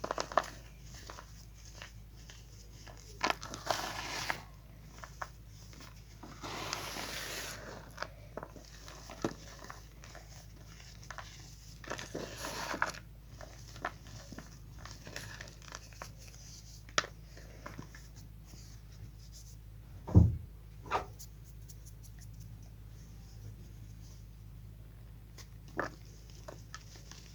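Chalk crumbling: scattered crisp crackles and crunches, with longer grinding crumbles about 3, 7 and 12 seconds in, and two sharper knocks about 20 and 21 seconds in.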